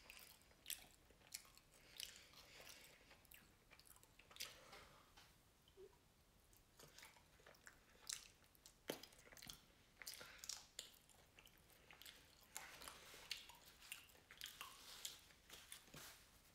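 A person chewing french fries, faint, with many short sharp mouth clicks scattered throughout.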